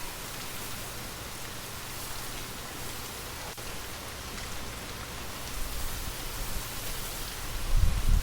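Steady rain falling, an even hiss of drops. A low rumble builds in the last couple of seconds and becomes the loudest part.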